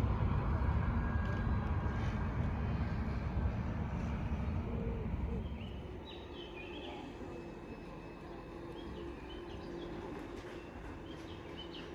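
A vehicle rumbling past, which fades out about halfway through, leaving quieter outdoor ambience with birds chirping.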